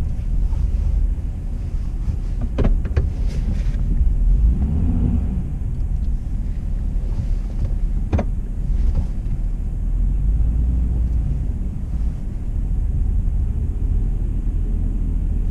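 Car's engine and tyres rumbling as it rolls slowly, heard from inside the cabin, with a couple of sharp clicks.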